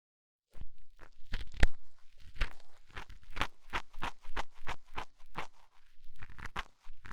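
ASMR ear cleaning: an ear pick scraping in the ear, a rapid, irregular run of crisp scratches and clicks starting about half a second in.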